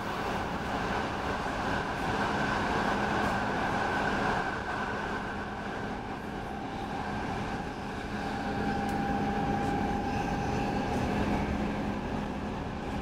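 Running noise inside an X10 electric commuter train at speed: a steady rush of wheels on rail with a constant low hum, a little brighter and louder in the first four seconds, and a faint thin whine for a few seconds past the middle.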